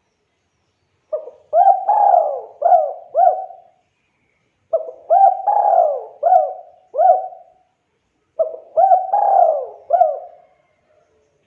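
Spotted dove (tekukur) cooing: three song phrases, each a run of about five quick rising-and-falling coos, with pauses of about a second between phrases.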